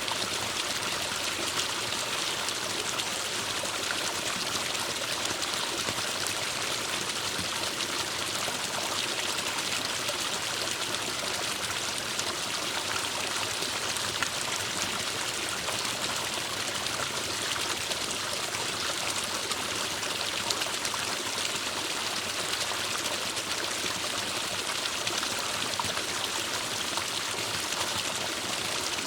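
Forest stream flowing and trickling steadily, a continuous hiss of running water.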